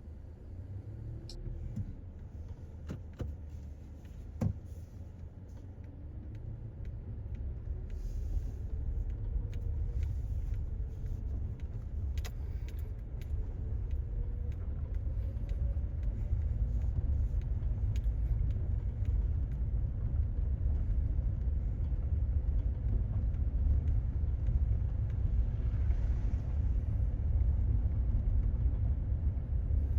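Car driving on a dirt road: a steady low rumble of tyres and engine that grows louder after a few seconds as the car picks up speed, with scattered small clicks and rattles.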